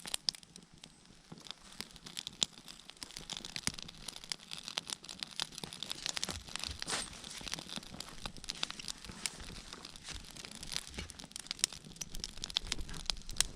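Newly lit campfire catching on its egg-carton fire starter and kindling, crackling with many quick sharp snaps and pops that grow louder over the first few seconds.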